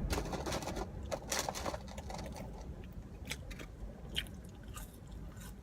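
A person chewing a mouthful of cheeseburger and fries close to the microphone: irregular wet smacks and crunchy clicks, busiest in the first two seconds and thinning out after.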